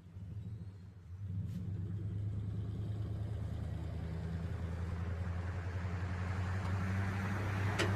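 An engine running steadily with a low hum, growing louder toward the end, with a sharp knock just before the end.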